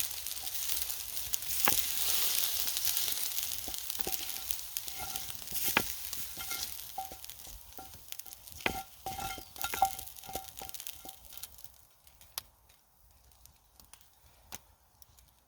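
Food sizzling in a hot pan while being stirred, with a metal utensil clicking and clinking against the pan. The sizzle dies away about three-quarters of the way through, leaving a few scattered clicks.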